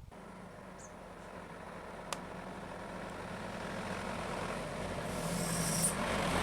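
A motor vehicle's engine running steadily and growing gradually louder, with a single sharp click about two seconds in.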